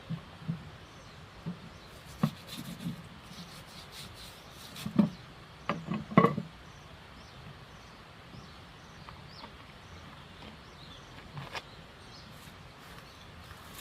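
Beeswax being rubbed onto a wooden beehive: scattered rubbing and knocks on wood, the loudest cluster about five to six seconds in.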